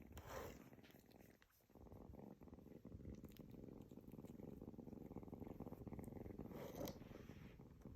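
Kitten purring steadily, a faint fast flutter that sets in about two seconds in, while it sucks on something as if nursing, which the uploader thinks is the orphaned kitten seeking its mother's milk. A brief soft rustle near the end.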